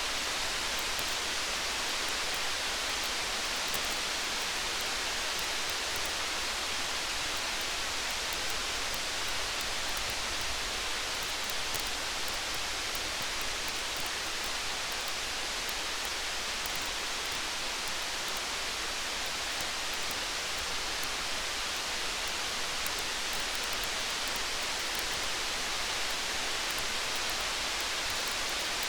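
Steady rain hiss mixed with a campfire, with faint, scattered sharp ticks over the even rush.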